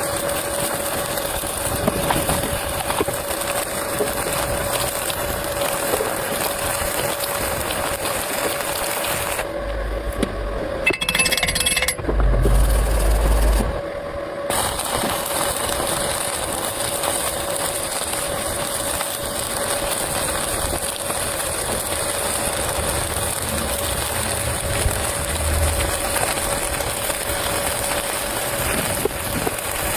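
Electric arc welding: a steady crackling hiss from the arc, over a constant hum from the welding machine. The arc stops for a few seconds about ten seconds in, with a few low thuds, then strikes again and runs on.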